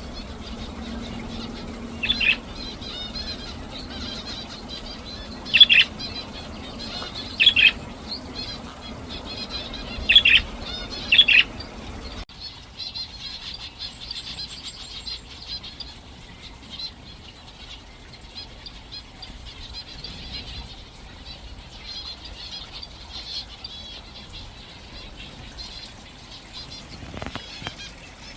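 Aviary birds chirping continuously, with five loud, short, sharp calls in the first half. About twelve seconds in, the low background hum drops away and the softer chirping goes on.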